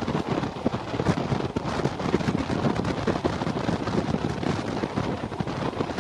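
Passenger train running along the line: a steady noisy rumble from the wheels and track, with wind buffeting the microphone.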